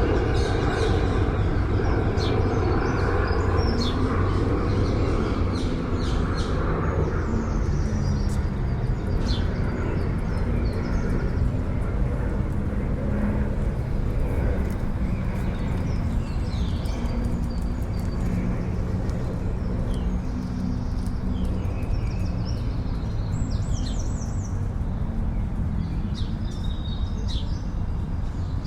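Songbirds chirping and singing in short phrases over a steady low rumble of city traffic.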